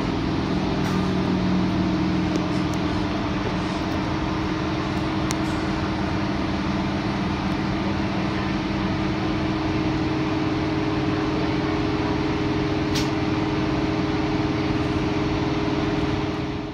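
Sydney Trains electric suburban train running, heard from inside its rear cab: a steady hum from the train's electrical equipment over the rumble of wheels on rail, with a few faint clicks.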